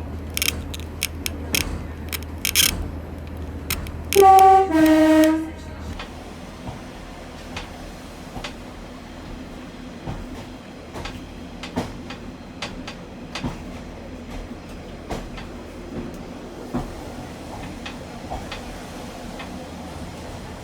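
Pacer diesel railbus sounding its horn about four seconds in: two short notes, the first higher and the second lower, over the rattling and clicking of the railbus running along the line.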